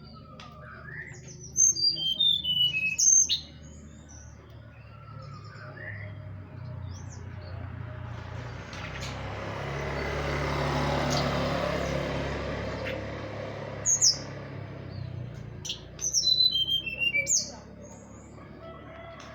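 Teledekan bird song: two bouts of quick, sharp high notes that tumble downward in pitch, about a second and a half in and again near the end. Between them a rushing noise swells and fades.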